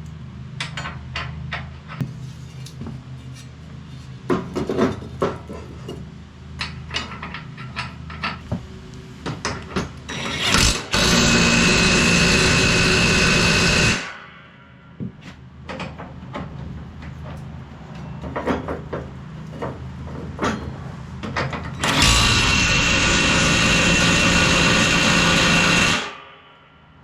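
A handheld power tool runs at full speed twice, about three to four seconds each time, with a steady high whine; metal tools and parts clank and knock around it.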